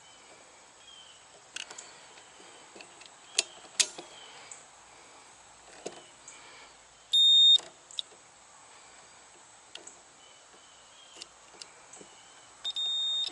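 Digital multimeter's continuity beeper sounding twice, a short steady high beep about seven seconds in and another near the end, as the probes test across the circuit breaker's terminals; the beeps show the contacts closing through. Light clicks and taps of the probes and breaker between.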